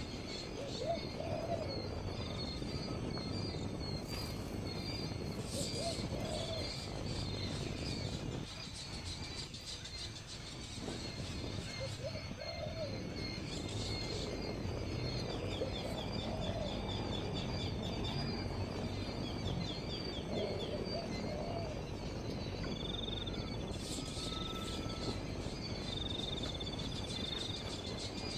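Outdoor bird ambience: a low call repeated every few seconds, with high chirps and trills from other birds or insects.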